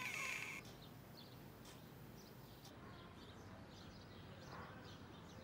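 Faint bird chirps over quiet room tone.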